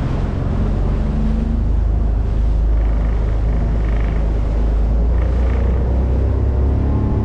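Speedboat engine running steadily under way, a heavy low rumble with wind and water rushing past the hull.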